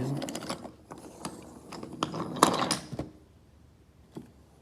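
Wooden toy trains and track being handled: irregular clicks and clatters, the loudest about two and a half seconds in, then only a few faint clicks.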